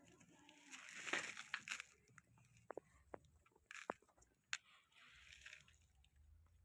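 Faint chewing and crunching from a puppy, with a rustle about a second in and a few sharp clicks.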